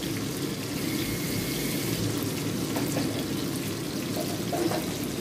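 Chilies, shallots and garlic frying in hot oil in a wok, a steady sizzle as they are stirred with a spatula. There are no loud pops: the chilies were slit open beforehand so they don't burst and spatter.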